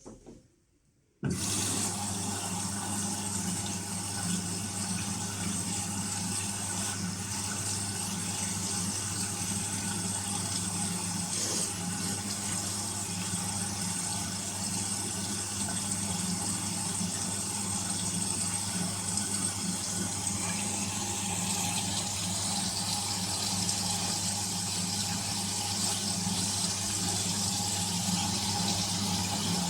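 Indesit Innex washing machine taking in water: a steady rush of water with a low hum, starting suddenly about a second in.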